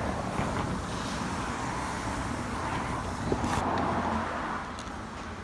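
Refrigerant vacuum pump running steadily while it evacuates a car's air-conditioning system, with a couple of sharp clicks from handled tools a little past the middle.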